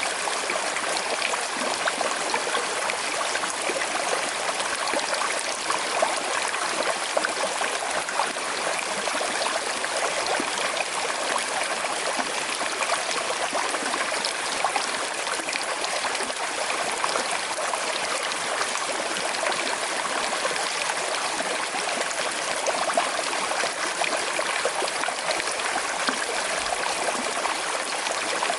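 A small, shallow river flowing with a slight current, its water babbling and trickling over stones in a steady, even rush.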